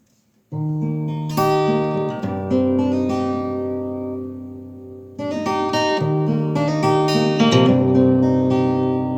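Acoustic guitar playing an intro of slow chords, each left to ring, changing every second or two. It starts about half a second in.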